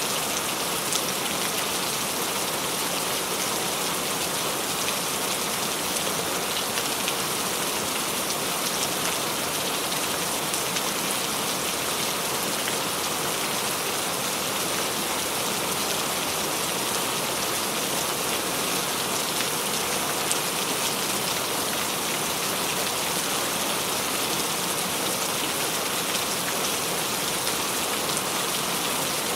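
Steady rain falling, an even hiss dotted with fine drop patter, unchanging throughout.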